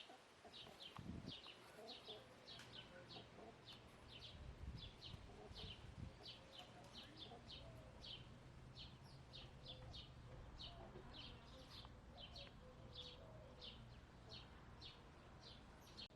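Faint, steady series of short high chirps from a small wild bird, about two or three a second, with soft low clucking from hens underneath.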